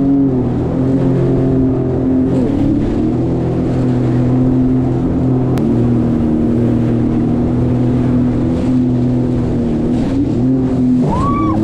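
Jet ski engine running steadily at low cruising speed, its pitch shifting slightly a few times as the throttle changes.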